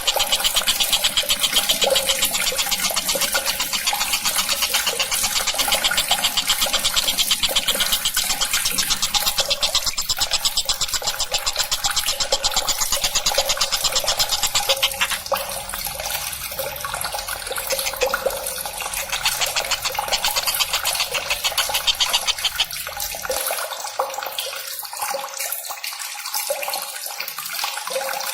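Tengkek buto calling in a fast, shrill, continuous rattling trill. The trill is very even for the first half and turns looser and more broken about halfway through.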